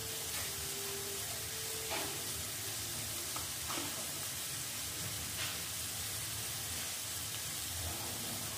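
Onion and spice masala sizzling steadily in hot oil in a kadai, with a few faint clicks.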